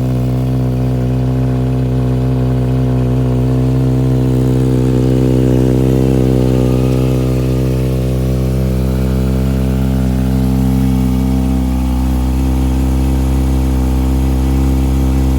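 2020 Kawasaki ZX-6R inline-four idling steadily through a Graves aftermarket exhaust while it warms up after a cold start.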